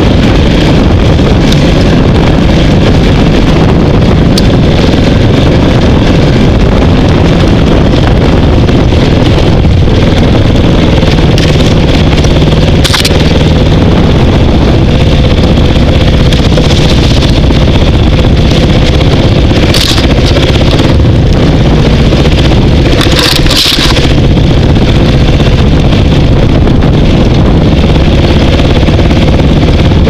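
Dirt bike engine running loud and steady while the bike rides a rough trail, with wind and rushing noise on the microphone. A few brief rushes of noise stand out, about 13, 20 and 23 seconds in.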